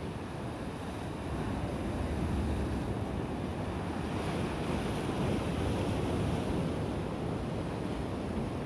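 Sea waves breaking and washing up the shore, a steady rush that swells about a second or two in and eases off near the end.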